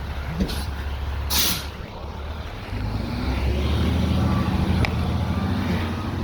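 Peterbilt 520 garbage truck's diesel engine running, with a short air brake hiss about a second and a half in. From about three seconds in the engine runs louder and higher.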